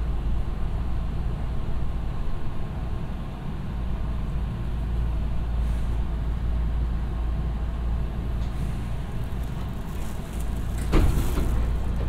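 Inside a Hankyu 7000 series electric train standing at a station: the steady low hum of its on-board equipment. Near the end comes a sudden sharp burst, then a short hiss.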